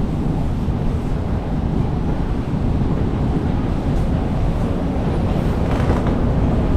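New York City subway train running, a steady low rumble.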